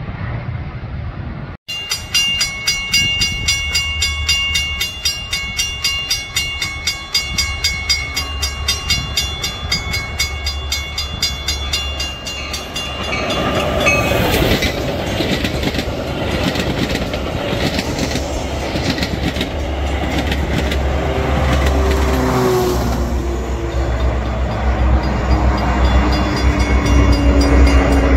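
Grade-crossing bells ringing steadily. Then a Metra bilevel commuter train passes close by with a rumble and the clatter of wheels on the rails. Near the end a diesel locomotive draws in with a low engine tone that slowly falls in pitch.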